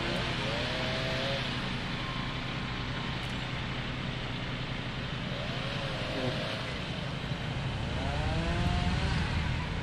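Small motorboat engine running steadily under way, with wind and water noise and a few brief wavering higher tones.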